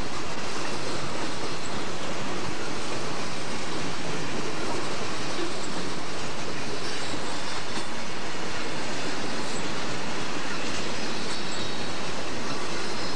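Southern Pacific freight train's boxcars rolling past close by: a steady, loud noise of steel wheels running on the rails that does not let up.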